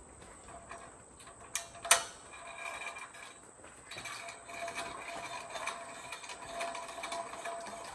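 A sharp knock about two seconds in, then a small motor-driven mechanism starts up and runs with a steady whirring, rattling hum.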